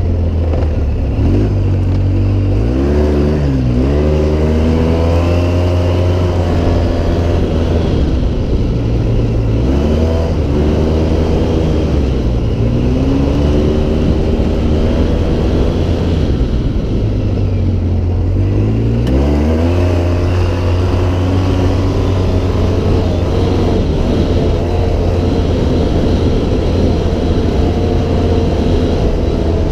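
Off-road vehicle engine running under throttle, its revs falling and climbing back up three times as the throttle is eased off and reapplied, over a steady rush of noise.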